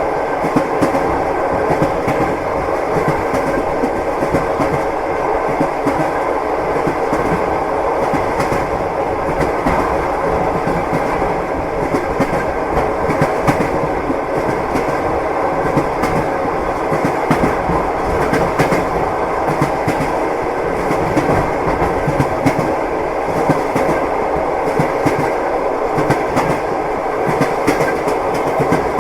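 Train wheels knocking over the rail joints: a steady rolling rumble with a clickety-clack of frequent knocks.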